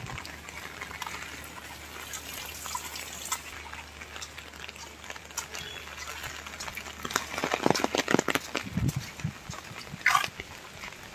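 Rain falling, drops pattering and dripping onto hard surfaces in many small clicks, with a cluster of louder knocks and rustles about two-thirds of the way in.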